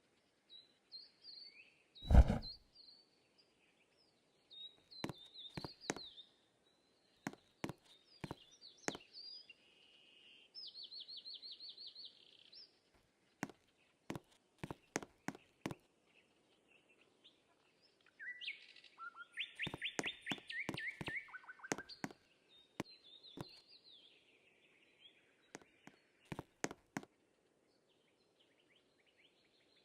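Birds singing and chirping in short phrases throughout, with scattered sharp clicks and one loud thump about two seconds in.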